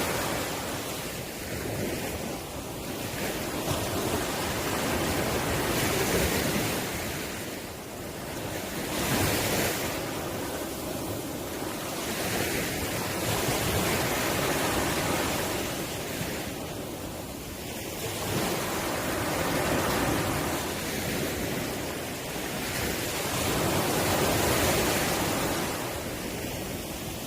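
Ocean surf washing onto the shore: a steady hiss of breaking waves that swells and falls back every few seconds.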